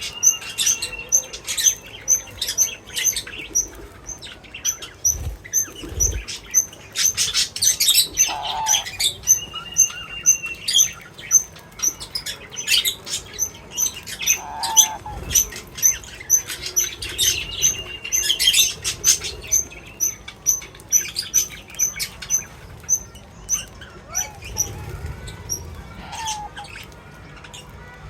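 Small birds chirping, with rapid high short notes repeating throughout and a few longer held whistled notes. Clicks and rustles run underneath, with a couple of low thumps about five to six seconds in.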